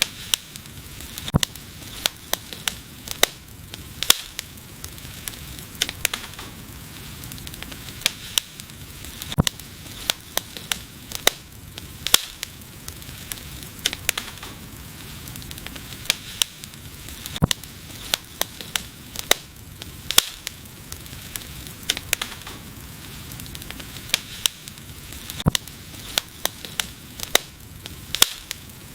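Wood fire burning, with sharp irregular crackles and pops over a steady soft hiss.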